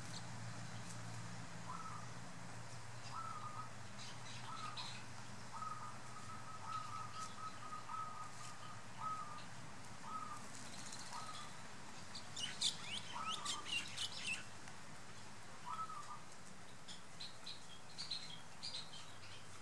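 Birds calling: a series of short, clear notes all at one pitch, some strung together into a quick pulsing run, with bursts of high, thin chirping from small birds around the middle and again near the end.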